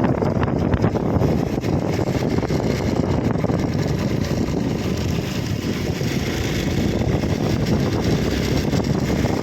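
Hero XPulse single-cylinder motorcycle engine running on the move, mixed with wind noise on the microphone.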